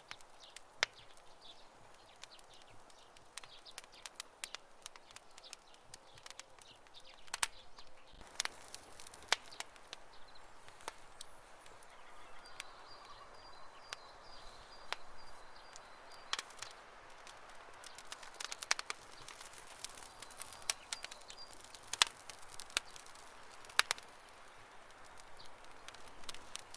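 Wood campfire crackling, with irregular sharp pops and snaps over a soft hiss. A faint high rapid trill comes twice in the second half.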